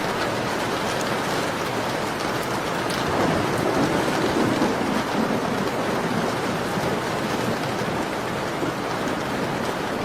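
Steady rain falling, an even hiss, with a few faint sharp crackles of a fireplace. A low rumbling swell builds and fades about three to five seconds in.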